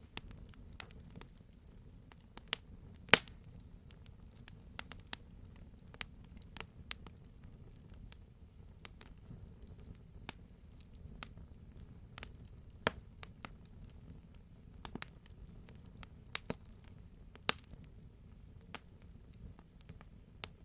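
Wood campfire crackling, with irregular sharp pops and snaps, the loudest about three seconds in, over a steady low rumble of the burning fire.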